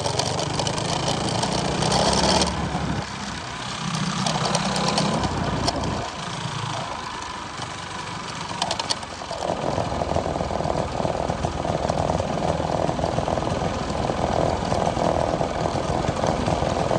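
Minibike's small engine, fitted with a hot cam and 22-pound valve springs, running while being ridden. It drops back twice in the first half, then holds a steady pace for the rest.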